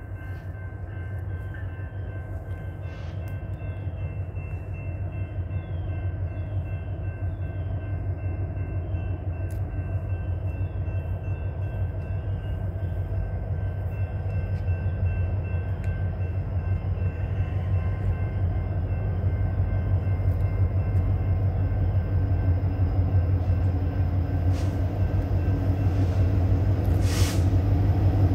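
Norfolk Southern train rolling along with a steady low rumble that slowly grows louder, a faint high ringing tone held over it. A brief hiss comes near the end.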